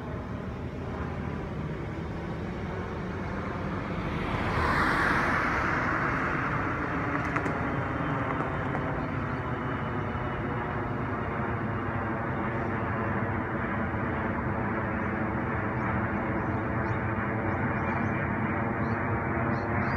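A vehicle running steadily, with a low, evenly pitched hum that grows louder. A louder rush of noise comes about four seconds in and eases off after a couple of seconds.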